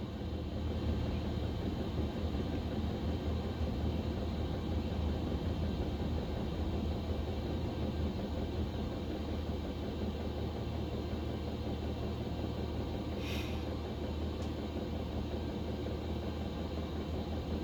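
Chinese diesel air heater running: a steady hum from its blower fan and motor. A brief hiss about 13 seconds in.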